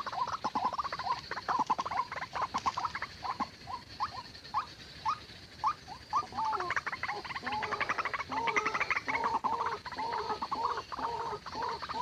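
White-breasted waterhen calling: a fast run of short, repeated notes that turns about halfway through into a lower, croaking two-pitched series, kept up without a break. A steady high-pitched hiss lies underneath.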